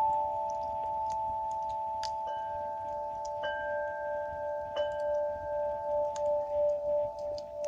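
Several sustained bell-like ringing tones. Fresh strikes at about two, three and a half and five seconds in add higher notes.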